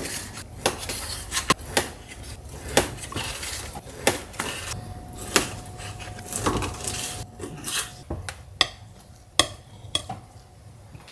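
Cutlery and dishes clinking and knocking at a meal: many sharp, irregular clicks, some ringing briefly, with a faint steady tone from about five to eight seconds in.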